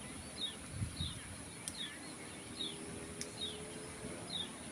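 A songbird giving short, high, downward-slurred chirps, repeated roughly once a second.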